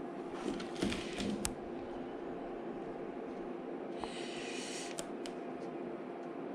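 A brief light scratching stroke about four seconds in, from hand touch-up work on the painted scooter panel, with a few small clicks, over a steady electrical hum.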